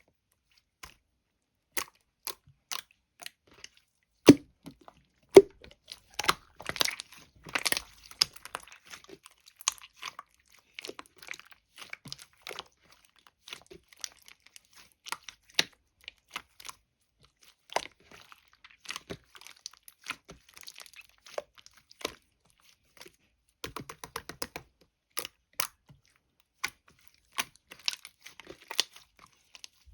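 Close-miked crackling, crinkling and crunching as blueberry jelly is handled and eaten, in scattered sharp clicks with busier stretches about six seconds in and again near the end.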